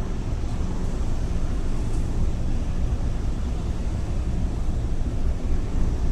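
Steady low drone of a ferry's engines under way, with wind buffeting the microphone.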